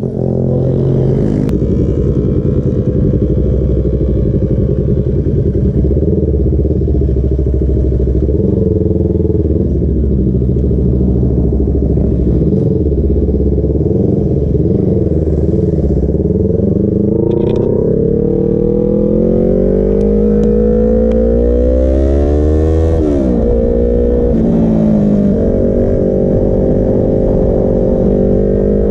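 Sport motorcycle engine running under way, heard from on board. Its pitch climbs and falls repeatedly as the throttle opens and closes, with one sharp climb and drop about three-quarters of the way through.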